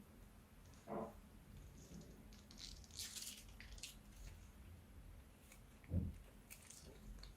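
Faint slime-handling sounds: a short squelchy squeak about a second in, soft crackling and squishing around three seconds, and a low soft thud near six seconds.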